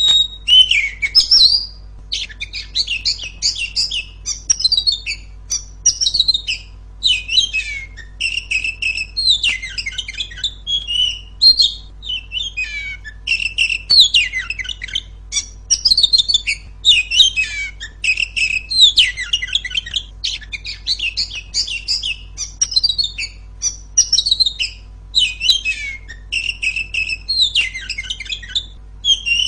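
Female Oriental magpie-robin (kacer) singing loudly: a continuous run of varied, rapid whistles, trills and chattering phrases separated by brief pauses.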